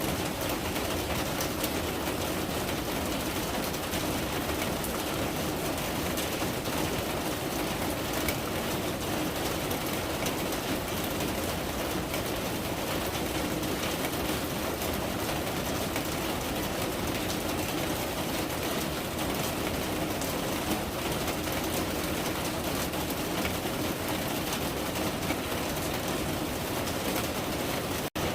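Steady rain falling, a dense, even patter of drops, with a brief cut-out to silence near the end.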